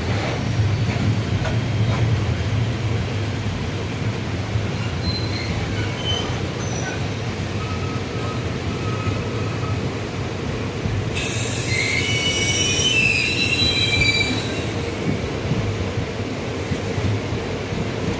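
Passenger train running along the track, a steady rumble of wheels and coach. A shrill, high-pitched squeal of the wheels on the rails comes in about eleven seconds in and lasts some four seconds.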